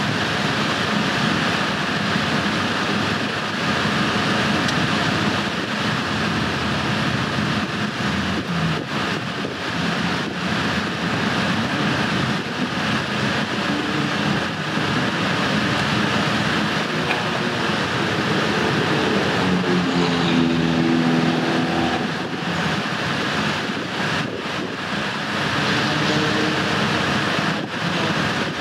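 Race cars running on the circuit: a steady, loud engine din, with one engine note standing out about twenty seconds in.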